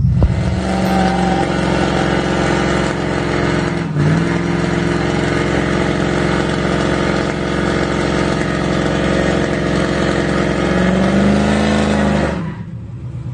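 A motor vehicle engine running at a steady speed, its pitch lifting and falling briefly near the end before the sound cuts off suddenly.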